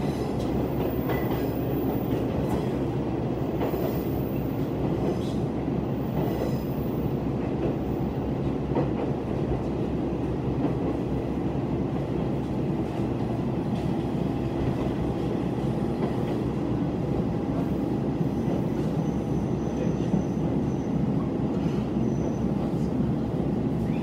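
Diesel railcar running, heard from inside the passenger cabin: a steady rumble of the engine and the wheels on the rails, with a few rail-joint clicks in the first several seconds.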